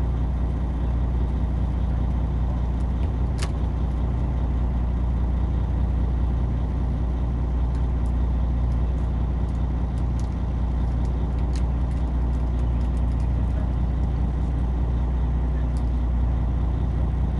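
Fishing boat's engine running steadily as a constant low drone, with a few faint clicks.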